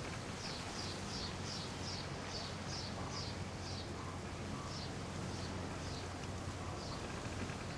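A bird calling in a quick series of short, high, falling notes, two or three a second, spacing out in the second half and stopping near the end. A steady low hum runs underneath.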